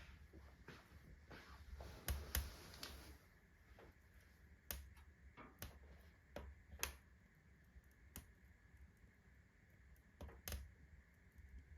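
Fireplace stove heating up fast on freshly lit kindling: sporadic sharp clicks and snaps, the iron of the stove expanding with the heat along with the burning wood crackling. The clicks are faint and irregular, the loudest cluster about two seconds in.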